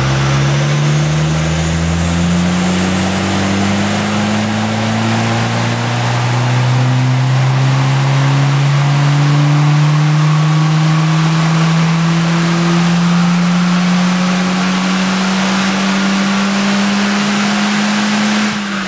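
Skoda Octavia Mk2 vRS engine running at full load on a rolling road, its revs climbing slowly and steadily through one gear for about eighteen seconds in a power run. Near the end the throttle is released and the revs fall away quickly.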